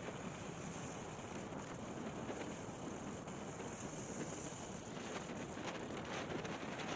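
Wind rushing and buffeting the microphone, over a steady noisy rush of fast travel across lake ice, with no clear engine note.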